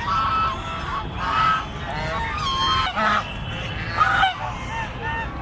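Several ducks calling, short pitched calls repeating and overlapping one another.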